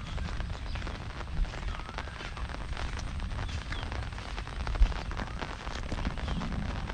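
Heavy rain falling steadily, a dense patter of drops over a low rumble, with one louder thump about five seconds in.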